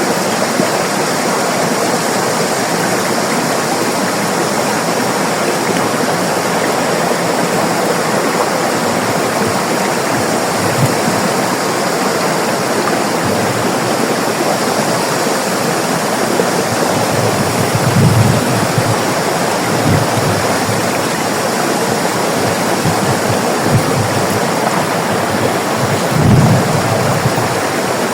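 River water rushing steadily, an even, continuous flow. A few brief low thumps cut through it in the second half, the strongest near the end.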